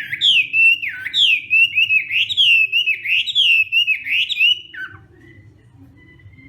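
Chinese hwamei (hoạ mi) singing a quick, loud run of clear notes that swoop up and down, breaking off with a falling note about five seconds in.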